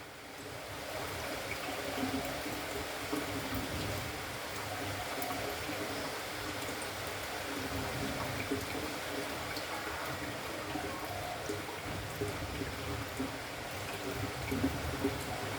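Spotted doves cooing softly and faintly now and then, over a steady rushing hiss like running water.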